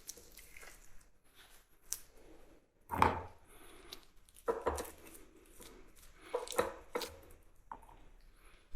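Irregular clicks and knocks of hand tools and metal engine parts being handled during repair work on a petrol rock drill engine. The loudest knock comes about three seconds in.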